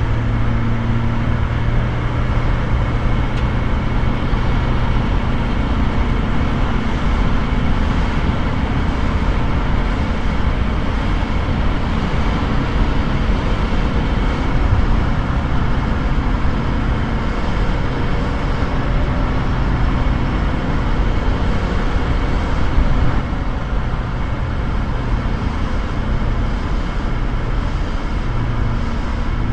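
VW T3's JX 1.6-litre turbodiesel engine running steadily, with an odd noise that its owner cannot place.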